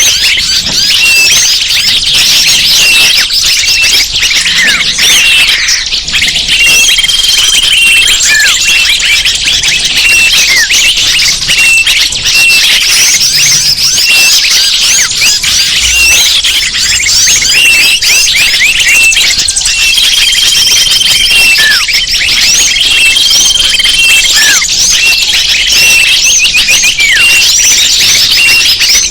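Bird-lure recording: a loud, dense chorus of many small birds chirping and twittering at once, with brief held high whistles now and then.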